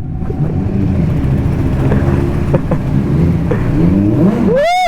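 Kawasaki Z900's inline-four engine running at road speed, its pitch rising and falling with the throttle over wind rush. Near the end a horn sounds briefly.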